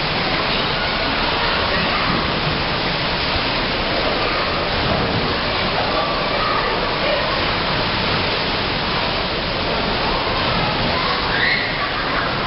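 Water sloshing and splashing in a cruise ship's swimming pool as the ship rolls in a storm: a loud, steady rushing noise.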